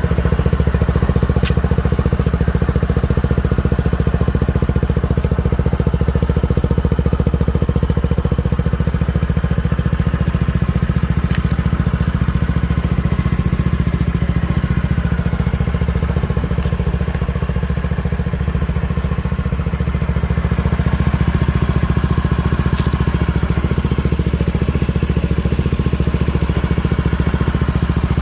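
Honda PCX125 scooter's single-cylinder four-stroke engine idling steadily through an IXIL XOVC aftermarket silencer, a deep, even exhaust note.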